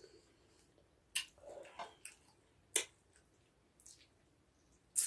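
Close-up eating sounds from spicy chicken feet being chewed, with three sharp mouth clicks spread through the stretch and softer chewing between them.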